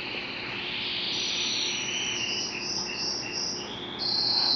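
Canaries singing, with warbling and rapid repeated high notes, rising into a loud sustained high trill about four seconds in.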